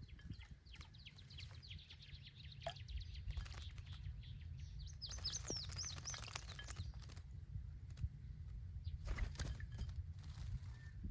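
Small songbirds chirping: a fast run of repeated high notes, then about a second of louder, sharp high chirps. Near the end come a couple of short rustling bursts, like wings fluttering or water being splashed.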